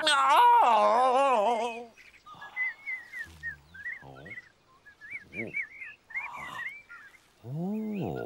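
A man's long wavering groan in the first two seconds, then a small cartoon bird chirping in quick, repeated short wavy chirps, with a few short low voice-like sounds in between.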